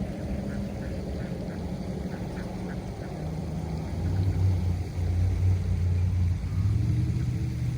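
A low, steady motor drone that grows louder for a few seconds in the middle, with a quick run of faint short sounds about a second in.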